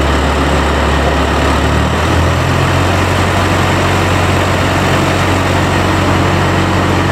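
A heavy engine running steadily, its low note shifting up slightly about two seconds in.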